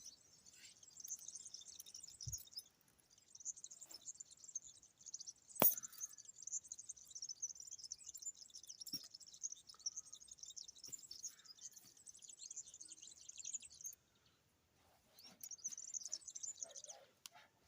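Small birds chirping in a rapid, high-pitched twittering that stops briefly a few times. A sharp click about five and a half seconds in.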